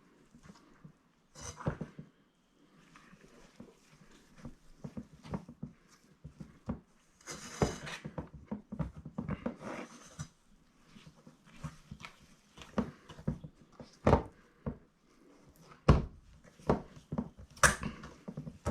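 Stiff icing-sugar and egg-white meringue paste being worked by hand in a bowl: irregular sticky squelches, rubs and light knocks, with a few sharper knocks in the second half.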